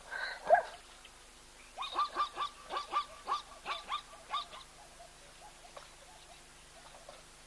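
A wild bird calling: a couple of calls right at the start, then a quick run of about ten short calls from about two seconds in until halfway through.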